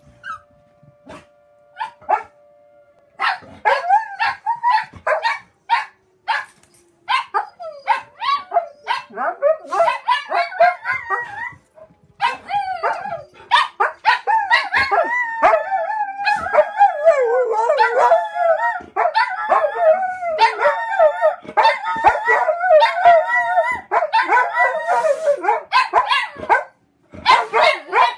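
Several dogs barking and howling, set off by a fire alarm. A steady tone runs for the first three seconds. Then barks and wavering howls start about three seconds in and become a continuous chorus through most of the rest.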